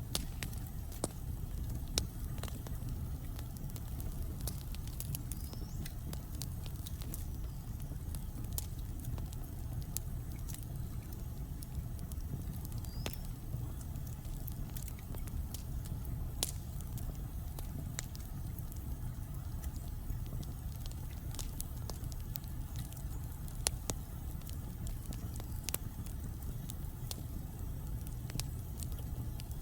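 Wood fire burning in a fireplace: a steady low rumble of the flames with frequent sharp crackles and pops from the burning logs, scattered irregularly.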